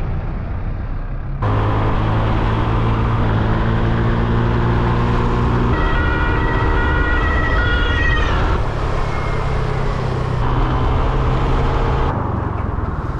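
Honda Click 125cc scooter's engine running steadily while under way. For a few seconds near the middle a high tone steps up and down in pitch over it.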